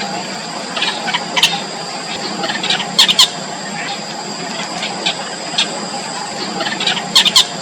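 Yellow bitterns at the nest giving short, sharp squealing calls, about six in all, with a pair close together near the end, over a steady high-pitched drone.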